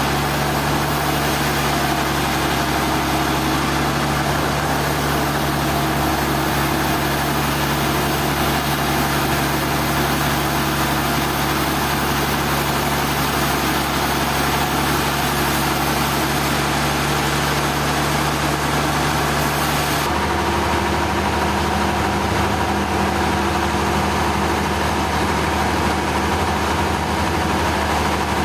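Heavy engine-driven sawmill machinery running steadily: a constant engine hum under a dense mechanical noise. About twenty seconds in, the hum shifts to a different pitch.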